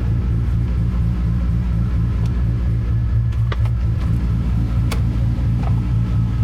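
Big-turbo Toyota Supra MK4 2JZ-GTE inline-six running steadily at low revs, heard from inside the cabin. A couple of short clicks come midway.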